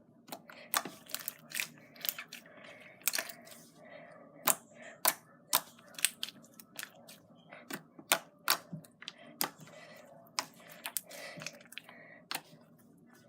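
Jiggly slime being squeezed and poked by hand, giving irregular sharp clicking pops, a few a second.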